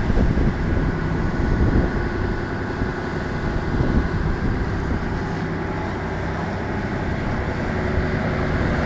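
Boat's engine running steadily under way, a continuous drone.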